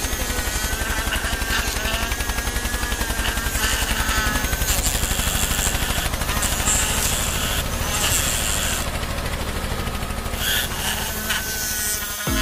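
Small electric motor of a homemade toy tractor running with a fast, even pulsing and a whine that wavers in pitch.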